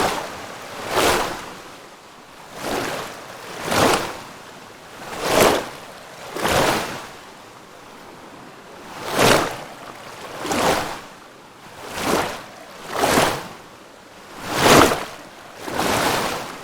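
Small waves washing in, each a rush of water that swells and fades about every one and a half seconds over a steady hiss.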